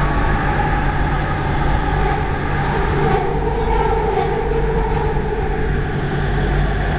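Light-rail train car running along the track, a steady rumble and hum heard from inside the carriage.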